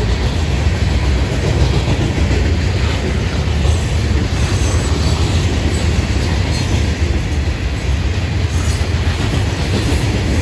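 Florida East Coast Railway freight train's rock hopper cars rolling past close by: a steady, loud rumble and clatter of steel wheels on the rails.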